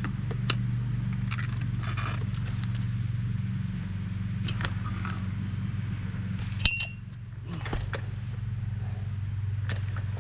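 Small metal parts clinking and rattling in a magnetic parts tray as it is swept over the ground, with one sharp, ringing clink about two thirds through. A steady low hum runs underneath.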